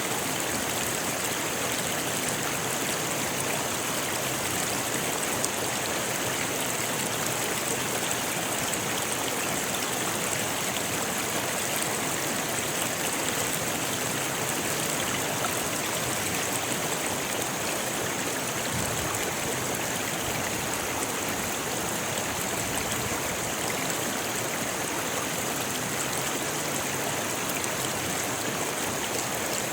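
Rocky river flowing steadily over stones: a continuous, even rush of water with a bright hiss.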